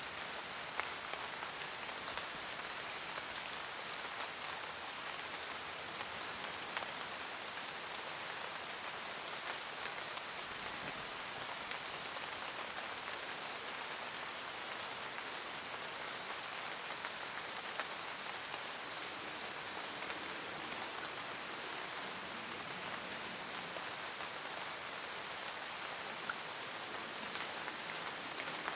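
Steady rain falling in a forest, an even hiss with scattered individual drops ticking and a few louder drips.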